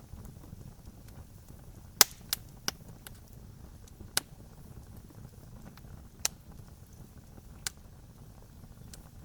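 Campfire crackling: sharp pops and snaps of burning wood, a quick cluster of three about two seconds in and single louder pops later, over a steady low hiss of the flames.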